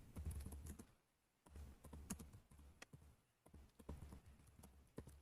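Faint computer keyboard typing in three short runs of keystrokes with brief pauses between them, as a field name is typed in.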